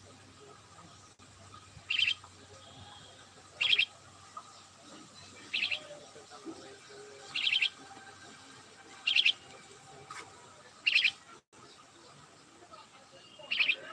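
A bird calling over and over: a short, high, rapid chirp repeated about every two seconds, seven times.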